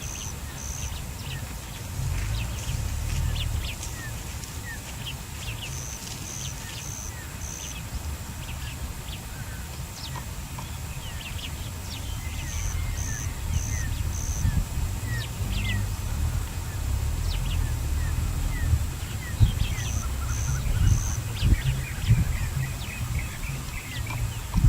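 Strong wind buffeting the microphone with a low, uneven rumble. Birds chirp throughout, and one gives a call of four short high notes every six or seven seconds.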